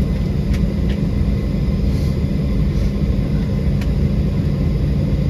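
Steady low rumble of a Southwest airliner's cabin, the engine and air-conditioning noise heard from a passenger seat, with a few faint clicks.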